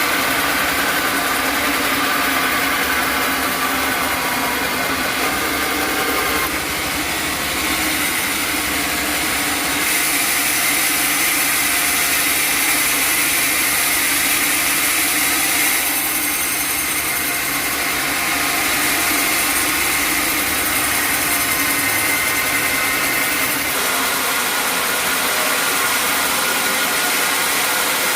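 Sawmill machinery running steadily, an engine with saw noise, its upper hiss shifting in level several times.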